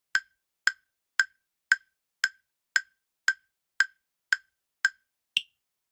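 Countdown timer sound effect: ten short, even ticks at about two a second, ending with an eleventh, higher-pitched click.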